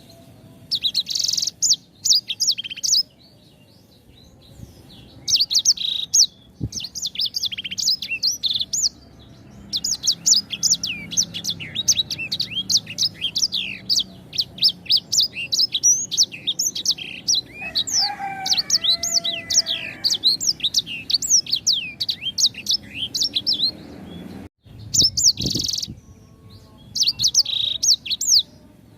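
A small songbird, the bird Indonesian keepers call a sanger, singing rapid, high chirping phrases in bursts separated by brief pauses. A lower warbled phrase comes near the middle.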